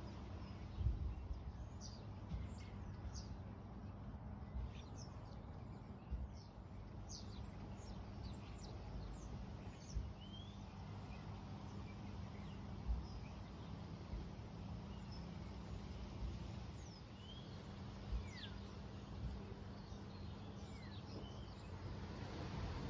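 Small birds chirping and calling, short high notes scattered through, over a steady low outdoor background hum with a few soft low bumps.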